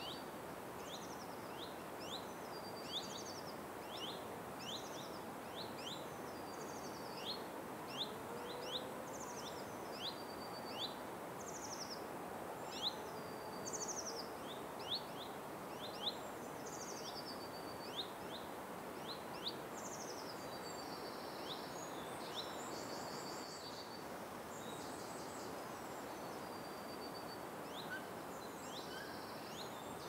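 Forest ambience: a steady background hiss with birds calling in short, high, falling chirps repeated about once a second, joined by longer, buzzier high calls in the last third.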